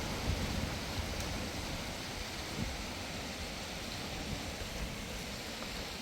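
Steady rushing blizzard wind, with a low buffeting rumble on the microphone.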